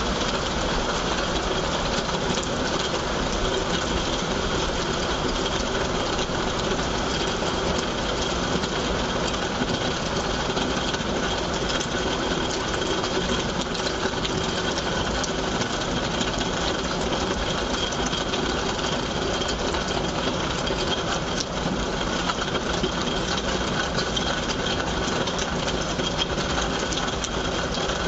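Heavy rain falling steadily on a flat concrete rooftop and its puddles: a dense, unbroken patter of drops.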